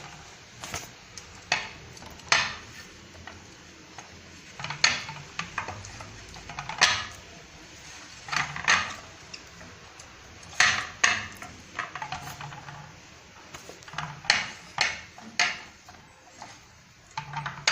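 Clinks and knocks of a kitchen utensil against a baking pan as the pan is greased with butter: about a dozen sharp hits, irregularly spaced a second or two apart.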